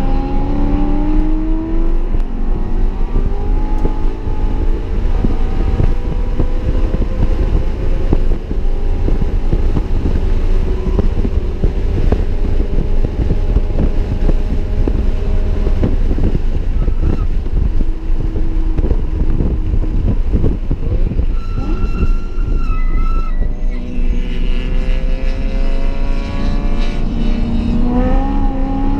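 BMW E92 M3's 4.0-litre V8 with an X-pipe exhaust, heard from inside the cabin at track speed. Its pitch climbs as it accelerates at the start and again near the end. In between it runs under heavy tyre and wind noise, with a brief high squeal about two-thirds through.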